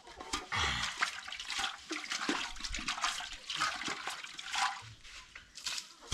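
Water splashing and pouring in uneven surges, with a few light knocks.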